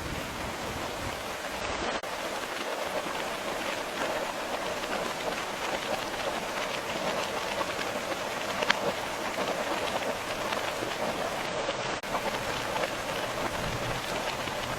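Steady rain falling, an even patter of many drops, with one sharper drop tick a little past halfway.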